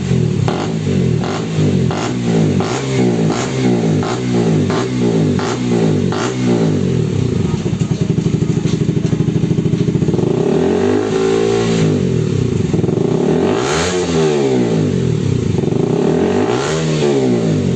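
KTM RC 200's single-cylinder engine revved through a loud aftermarket exhaust: about ten quick throttle blips in the first six seconds or so, a short steady idle, then three longer revs, each rising and falling in pitch.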